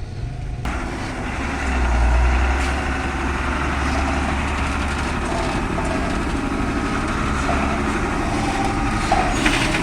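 Heavy coal truck's diesel engine running at low speed, a deep rumble that swells about two seconds in, mixed with steady road and outdoor noise.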